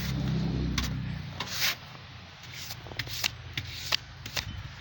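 Snow being brushed and scraped off a car in short, irregular strokes, the loudest about a second and a half in. A low rumble underneath fades out over the first second or two.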